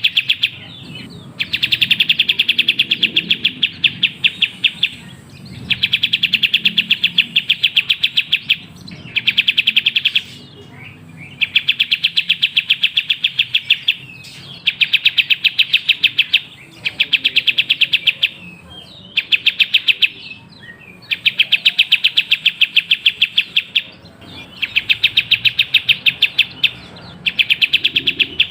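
Kapas tembak singing in fast, rapid-fire bursts of chattering trills, each burst a few seconds long, with short pauses between: a lure song meant to set other kapas tembak singing.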